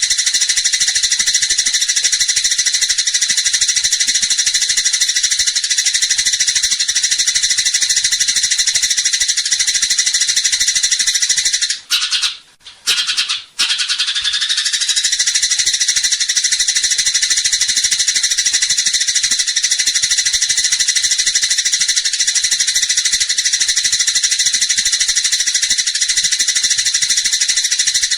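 Eurasian tree sparrows chattering in a dense, fast, high-pitched stream of chirps: the agitated calls of fighting sparrows. The chatter breaks off briefly twice about halfway through.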